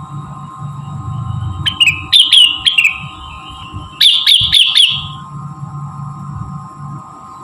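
Songbird lure recording: two quick runs of sharp, falling chirps, the first about two seconds in and the second about four seconds in, over a steady hum.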